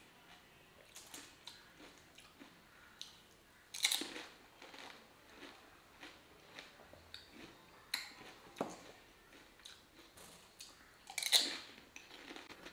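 Chewing a mouthful of pani puri: the crisp fried puri shells crunch among soft, wet mouth sounds. Louder crunches come about 4, 8 and 11 seconds in.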